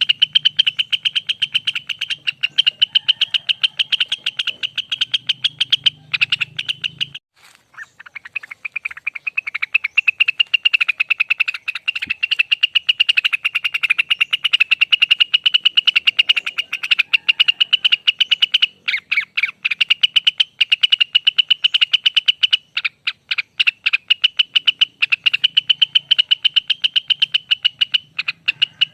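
Rengganis (cucak wilis) bird singing its long 'ropel' trill: a rapid, fast-pulsed, high note train that runs on for many seconds. It breaks off briefly about seven seconds in and resumes, with a couple of short hitches later on.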